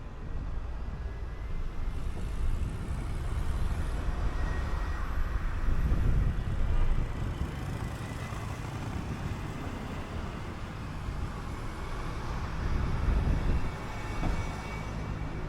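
A city bus under way: engine running and road rumble, swelling louder about six seconds in and again near thirteen seconds.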